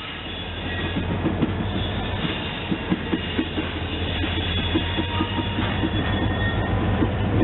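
A diesel-hauled train moving on the track: a steady low engine hum, irregular clicking of wheels over the rails, and thin high wheel squeal.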